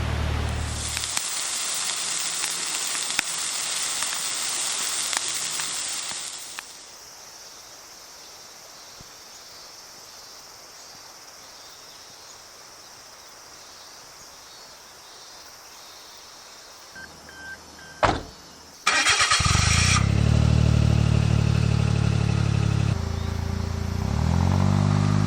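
Suzuki Jimny JB23W's 660 cc three-cylinder turbo engine being started: a sharp click and a brief burst of cranking, then the engine catches and idles, with the revs rising near the end. Before it, a few seconds of steady hiss and then a long quieter stretch.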